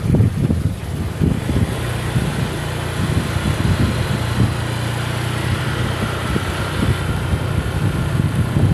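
A vehicle engine running steadily at low revs, with road and air noise.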